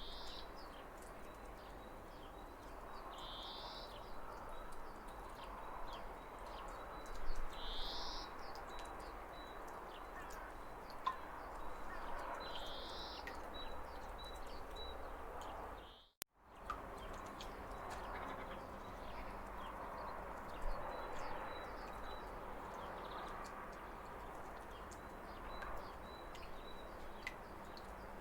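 Steady rushing of a small waterfall, with a bird repeating a short high call every four or five seconds through the first half and faint scattered chirps. About halfway through, the sound cuts out for a split second.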